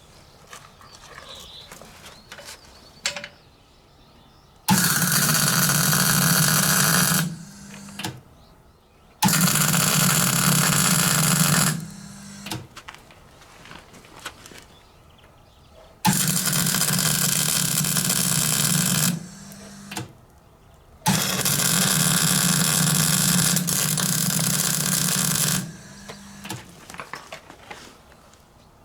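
A metalworking tool on iron, run in four bursts of three to five seconds each. Each burst starts and stops abruptly, a steady low buzz under a harsh hiss, with small clinks in the pauses between.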